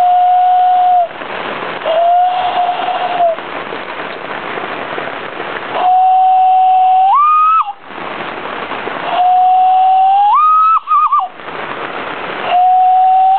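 Hand-cupped whistle, blown between the thumbs, imitating a common loon's call: a series of held whistled notes. The later notes jump up to a higher pitch, and the last ones end in a quick warble. A steady hiss fills the gaps between the calls.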